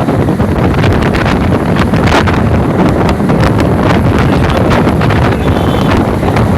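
Loud, continuous wind buffeting on the microphone, a dense rumble with irregular gusty crackle.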